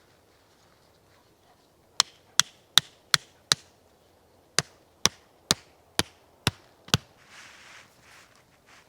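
Eleven sharp strikes of a hand tool on wood, in two quick runs of five and six at about two to three a second, with a short pause between.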